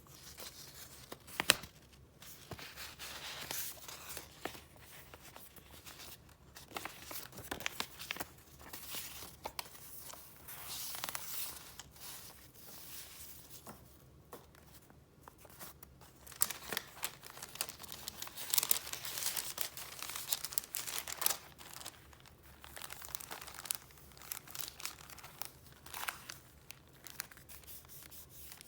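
Paper goods being handled close up: rustling and crinkling in irregular bursts, with a single sharp click about a second and a half in.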